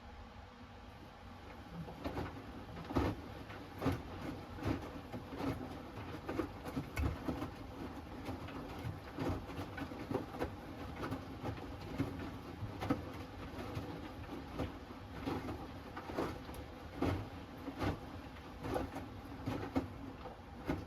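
Hoover Axi 10 kg front-loading washing machine in its wash tumble. After a short pause of about two seconds, the drum turns and the wet load drops and sloshes with soft, irregular thumps, roughly one a second.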